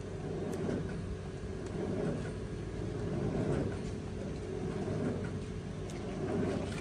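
A motor or engine running steadily, its low rumble swelling and easing, with a few light clicks and knocks.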